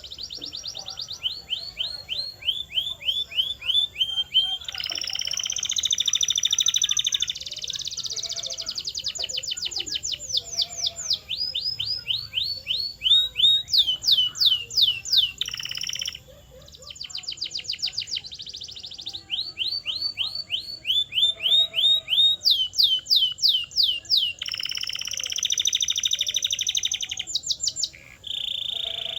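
Domestic canary singing a continuous song made of fast runs of repeated sweeping notes, about eight to ten a second, each run giving way to a different one every second or two, with buzzier rolled passages in between.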